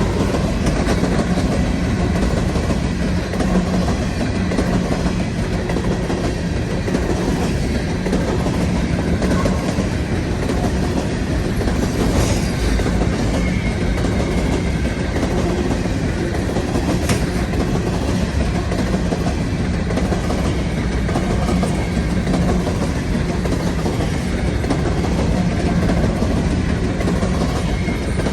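A long CN freight train of empty potash cars rolling steadily past, steel wheels running on the rails.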